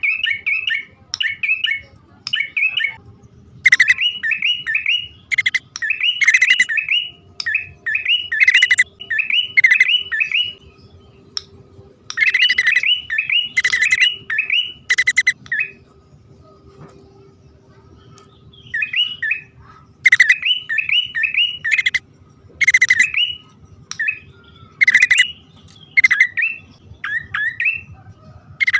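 Prinia (prenjak) lure call, a male and female pair calling. It comes as fast runs of sharp chirps repeated in bursts, with a pause of about three seconds midway.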